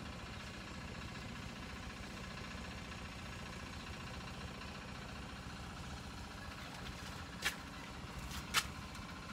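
Steady low hum of a small utility vehicle's engine running at idle, with two short sharp clicks near the end.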